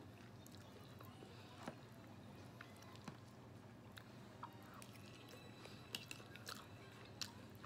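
A person chewing and biting into fried chicken close to the microphone: faint, scattered crunches and mouth clicks.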